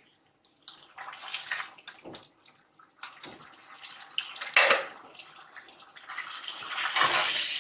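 Mutton liver and offal sizzling in oil and gravy in a pressure cooker pot while a metal ladle stirs and scrapes through it, with a few clinks of the ladle. The sizzling grows louder and steadier about six seconds in.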